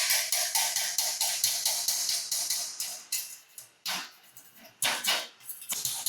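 Stick welding arc on thin galvanized steel square tube, crackling in quick pulses about five times a second as the rod is worked in short strokes. The arc goes out a little past halfway and is struck again several times near the end.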